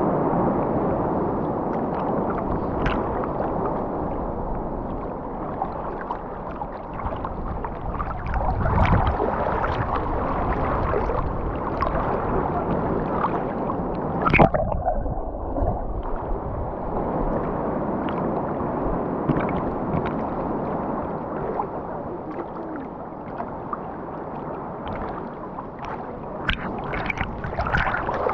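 Sea water sloshing and churning close around the microphone in the surf, a dull, muffled wash with small splashes. About halfway through there is one sharp splash, after which the sound goes duller for a second or two.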